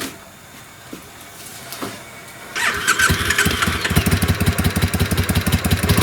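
A few light clicks, then about two and a half seconds in the electric starter cranks the 2002 Triumph Bonneville America's air-cooled parallel-twin engine and it catches, running with a fast, even beat.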